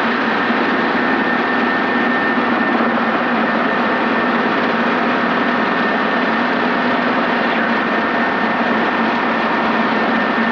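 Robinson R22 helicopter in flight, heard from inside the cabin: a steady, loud drone of engine and rotor with a constant hum and a high whine running through it, during a descent.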